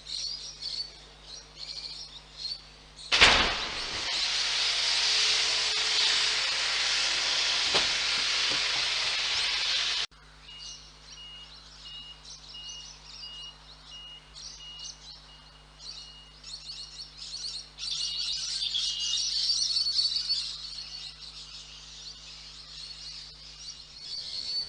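Birds chirp, then a sharp crash as a truck's refrigeration unit strikes a low bridge, followed by a loud hiss lasting about seven seconds that cuts off suddenly. After it, birds chirp again over a steady low hum and a high beep repeating at even spacing.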